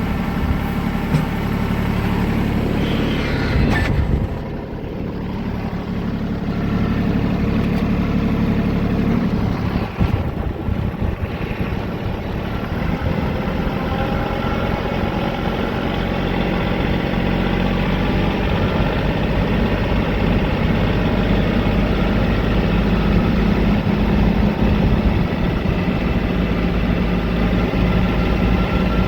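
Diesel tractor engine running steadily at raised RPM during an exhaust regeneration, heating up to burn the buildup out of its exhaust system. The level dips briefly about four seconds in.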